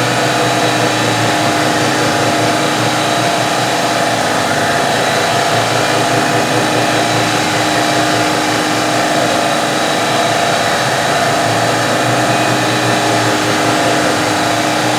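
CNC milling machine running steadily with its spindle spinning a single-flute thread mill through a thread-cutting pass, a constant mechanical noise with a steady whine held through.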